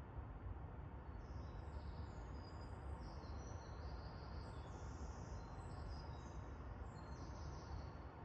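Small birds chirping, a stream of short high-pitched calls starting about a second in, over a faint steady low rumble.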